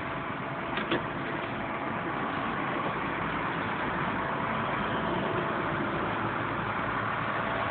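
A vehicle engine running steadily, growing louder over the first couple of seconds and then holding an even drone.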